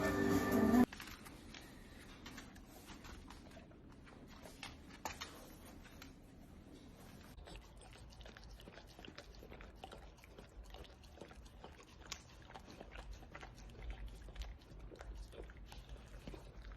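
A puppy chewing and biting, heard as faint, irregular small clicks and crunches. A song cuts off about a second in.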